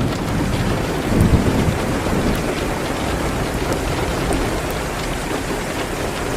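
Steady heavy rain hitting a window, with a short low rumble about a second in.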